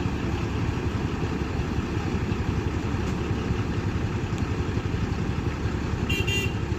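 A motor vehicle engine idling with a steady low rumble, and a short high-pitched double beep near the end.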